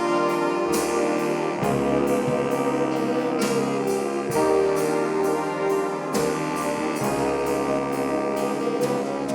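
High school swing band playing: full sustained chords, struck in accented hits about once a second.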